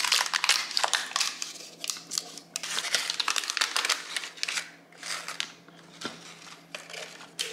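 Paper cupcake liners crinkling and rustling as the chocolate and chow mein noodle nests are handled, a dense run of small crackles that thins out about halfway through.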